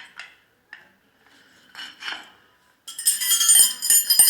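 Steel hand tools clinking and scraping on the metal parts of a clover mower's engine, with a screwdriver wedged in to hold the part while the nut is worked. A few light clicks, then from about three seconds in a loud, ringing metal-on-metal clatter.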